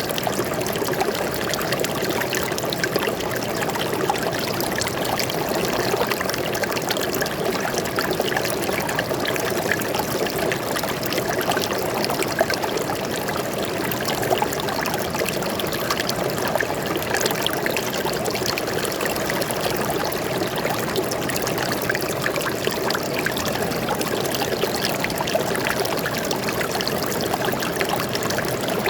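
Stream of water flowing and trickling steadily over rocks, a continuous splashing babble with no change.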